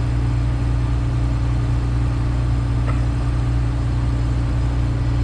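Steady low drone inside the cab of a Case IH 2144 combine, the machine idling with the cab fan running. A faint click about three seconds in.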